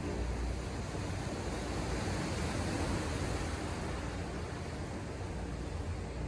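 Ocean surf, a steady wash of breaking waves that swells a little about halfway through, over a low rumble.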